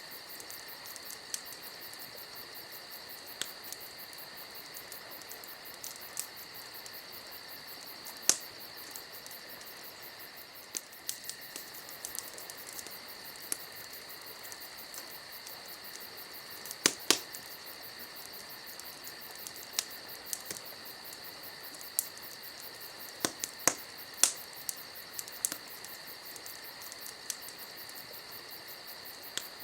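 A campfire crackling, with sharp irregular pops scattered over a steady high insect chorus; the loudest pops come in a cluster about halfway through and again a few seconds later.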